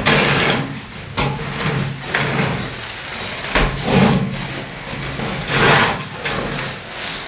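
Hand work on building materials: irregular scraping and knocking strokes, a few sharp ones a second or two apart.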